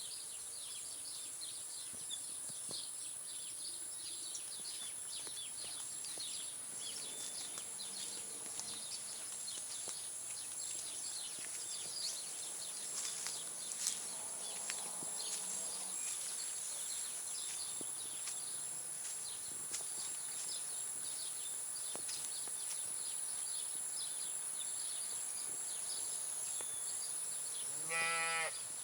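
Outdoor nature ambience: a steady, high-pitched drone of insects under many quick bird chirps. Near the end comes one short, loud pitched animal call.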